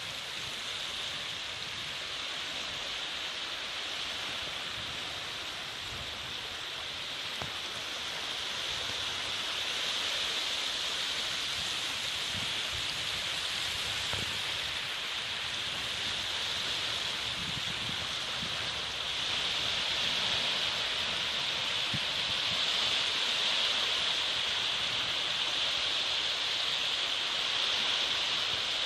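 Calm sea water: a steady rushing wash of water with a hissy top, growing slightly louder partway through.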